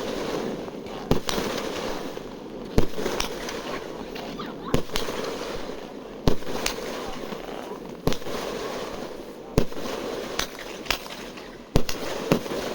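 Fireworks going off: about ten sharp bangs, one every second or two, over a steady crackle and hiss.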